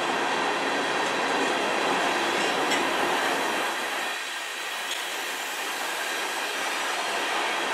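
Freight train of covered hopper cars rolling past at close range: a steady noise of steel wheels on rail, dipping slightly about halfway through.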